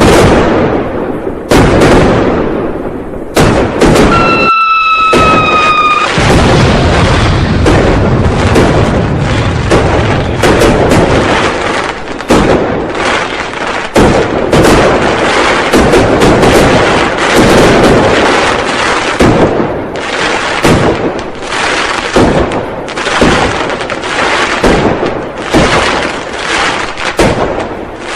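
Firecrackers and fireworks going off in a dense, unbroken string of loud bangs and booms. A whistle falling slightly in pitch sounds for about two seconds, a few seconds in.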